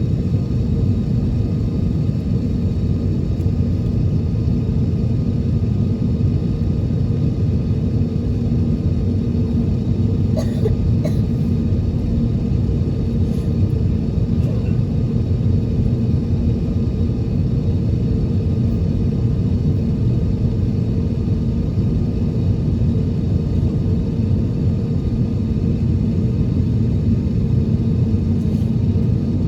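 Steady low rumble inside the cabin of an Airbus A321neo taxiing to the runway, its engines at taxi power, with a few faint clicks about ten seconds in.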